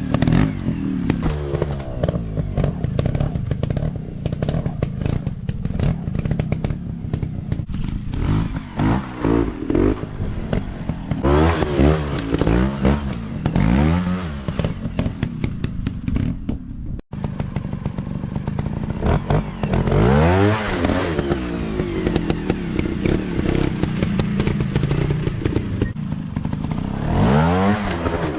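Small 150 cc dirt-bike engines running hard, revving up and dropping back again and again as the bikes accelerate and shift over rough ground. The sound breaks off for an instant about two-thirds of the way through.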